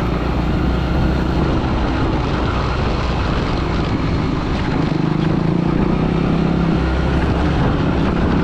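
A 125 cc motorcycle engine running at a steady cruise, heard from on board, with its drone holding an even pitch and rising slightly about five seconds in.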